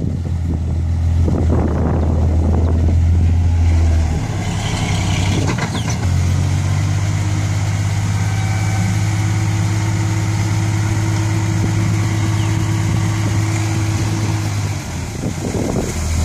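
Six-wheel dump truck's diesel engine running steadily. Its note changes about four seconds in, settles into a steady, slightly higher drone from about six seconds, and eases just before the end.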